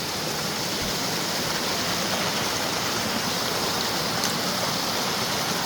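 Mountain creek rushing steadily.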